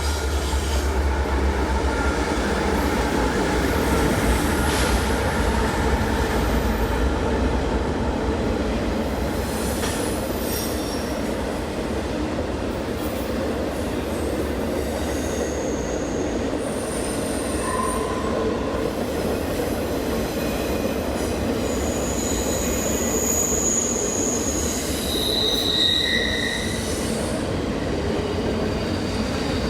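A train's railcars rolling past, a steady rumble of wheels on rail with brief high-pitched wheel squeals at several points in the second half.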